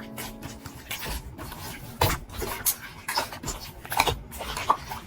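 Slime being squeezed and pressed by hand, giving irregular soft clicks and squishy pops.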